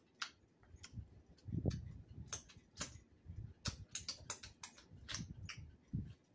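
Eating sounds: chewing fish, with many irregular sharp mouth clicks and smacks.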